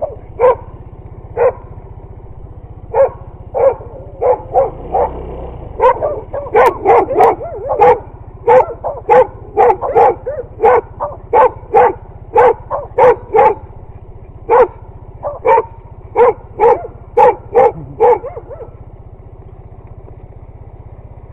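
A dog barks over and over in short sharp barks, about two a second at its fastest, then stops near the end. Under the barking runs the steady low hum of a motorcycle engine.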